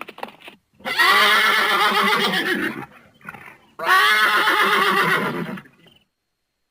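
Horse whinnying twice, two long calls of about two seconds each with a wavering, quavering pitch, after a few short clicks.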